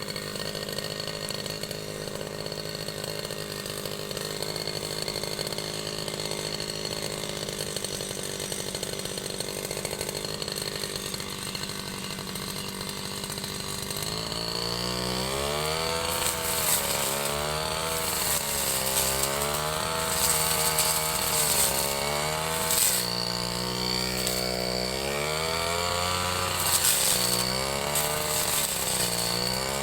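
Ryu 30.5 cc two-stroke brush cutter engine running at a steady speed. From about halfway it revs up and down again and again as it cuts grass, with a hiss from the line or blade at each rev peak.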